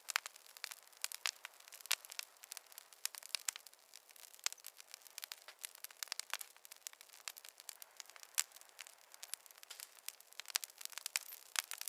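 Wood fire crackling steadily, with dense irregular pops and snaps over a faint hiss and no low rumble.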